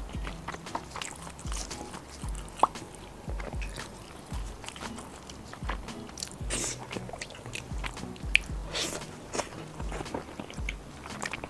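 Close-miked chewing and biting of fried skewer food: wet mouth sounds with short crunchy clicks. Background music with a steady low beat plays underneath.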